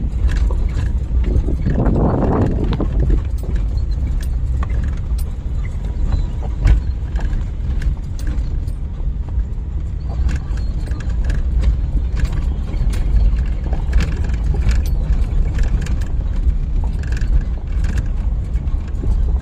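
Steady low rumble of a vehicle travelling on a rough road, with scattered knocks and rattles and a brief louder rush about two seconds in.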